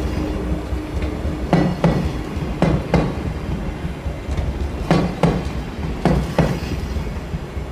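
Blue sleeper coaches of the Nihonkai limited express rolling past slowly, their wheels clacking over rail joints in close pairs every second or two over a steady low rumble.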